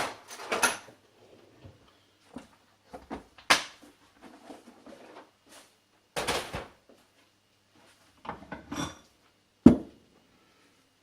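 Tools and metal parts being handled and set down while bolts are fitted to a turbocharger: scattered clinks and knocks, with one sharp knock near the end.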